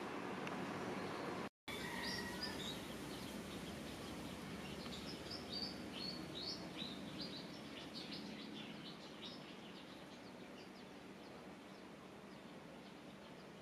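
Outdoor ambience: a steady low hiss with a run of short, high bird chirps from about three to nine seconds in, then the sound slowly grows quieter. There is a brief break in the sound about one and a half seconds in.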